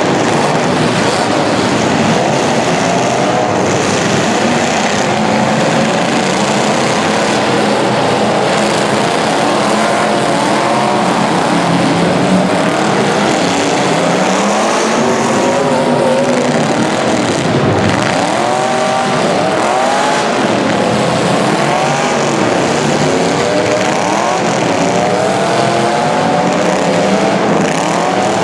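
Several racing engines running at once, their notes rising and falling repeatedly as they rev up, lift off and pass.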